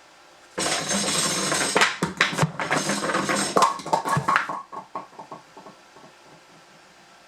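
Firewood sliding and tumbling down a culvert drain pipe chute: a rumbling clatter of knocks that starts suddenly about half a second in and dies away in a few fading, ringing taps.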